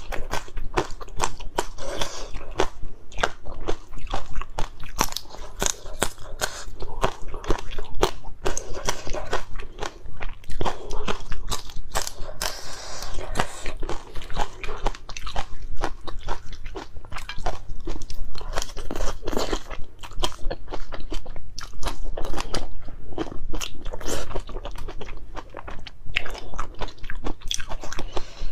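A person biting into and chewing whole chili peppers close to a clip-on microphone: a continuous run of crisp crunches and chewing.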